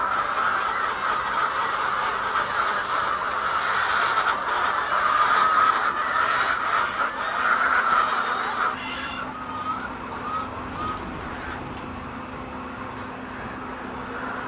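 A flock of laying hens clucking and calling together in a dense chatter that thins out about nine seconds in, leaving a few separate short calls, over a faint steady hum.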